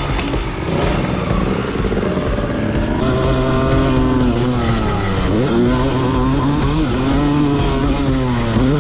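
Two-stroke motocross dirt bike engine revving hard up and down. The pitch drops sharply about five seconds in and again near the end, then climbs back each time.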